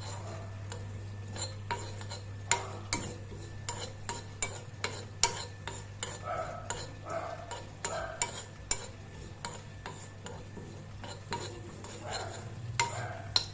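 A spoon stirring cumin seeds as they roast in a pan, clinking and knocking against the pan at an uneven pace of one or two strikes a second.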